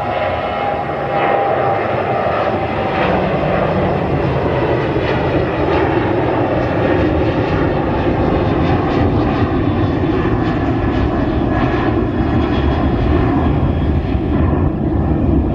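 Airliner engines roaring loud and steady as the plane takes off or lands, with a faint whine sinking slightly in pitch over the first couple of seconds.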